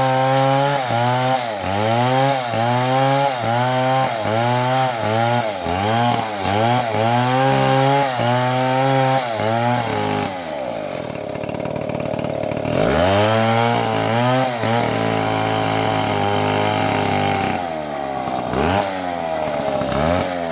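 STIHL MS720 two-stroke chainsaw cutting wood, its engine note dipping under load and recovering about once a second. About ten seconds in it drops to a lower speed, then revs up again and runs on, with a couple more dips near the end.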